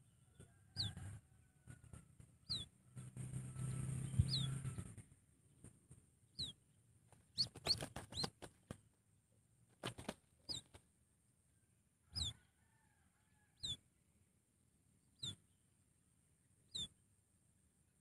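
A small bird's short, high chirp that drops in pitch, repeated about every one and a half seconds, with a burst of rustling about three to five seconds in.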